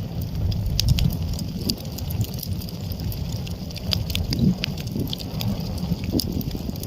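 Wood fire crackling, with irregular sharp pops and snaps from the burning logs over a steady low rumble.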